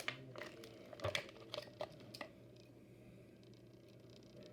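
Packaging of a diecast model car being handled and opened: several sharp crinkles and clicks in the first two seconds, then only faint rustling.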